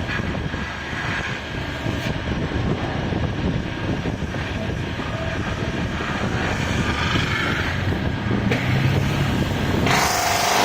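CNC metal spinning machine running, its roller pressing a spinning sheet-metal blank over the mandrel to form a cake pan, a steady mechanical rumble. Near the end a louder scraping, rubbing noise of the tool working the metal sets in.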